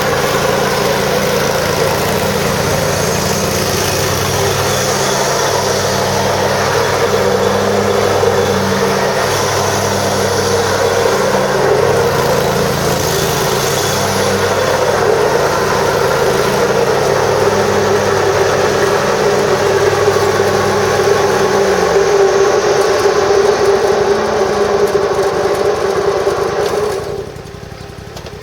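The Kohler Command Pro 25 hp V-twin engine of a 2007 Exmark Lazer Z zero-turn mower runs steadily. Its pitch drops about three-quarters of the way through, and the sound falls away sharply near the end.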